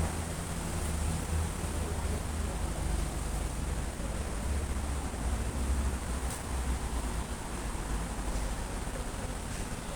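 Steady hiss of light drizzling rain, with wind buffeting the microphone as an uneven low rumble.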